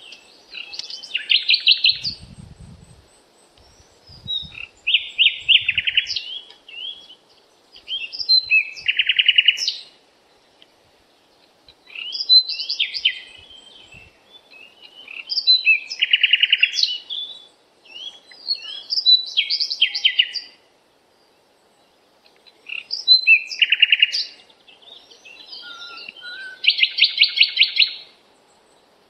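Songbird singing: repeated phrases of sharp chirps and fast trills, one every three to four seconds with short pauses between.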